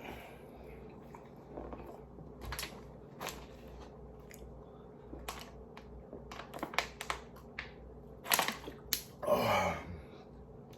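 Close-miked chewing of food: scattered wet mouth clicks and short crunches that come thicker in the second half, with a brief low voiced sound from the eater about nine seconds in.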